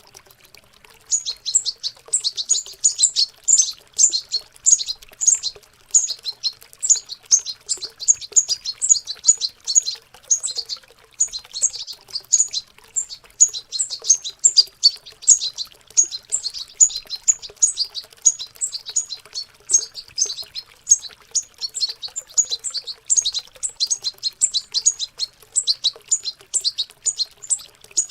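Young European goldfinches babbling their early practice song: a fast, continuous high twittering of short chirps that starts about a second in and runs on with only brief gaps.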